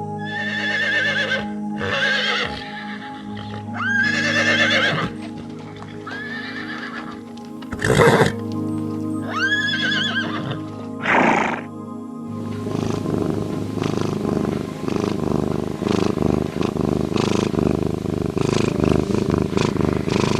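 A horse neighing, about half a dozen rising-then-falling calls over steady background music. After about twelve seconds a rougher, noisier animal sound with rapid pulses takes over.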